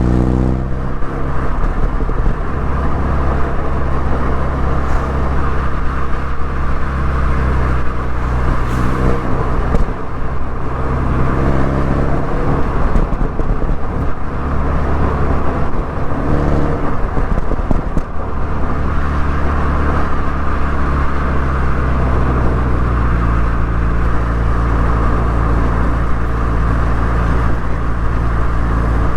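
MINI Cooper S engine and exhaust while being driven, the engine note changing and shifting in pitch through the middle, then steady near the end.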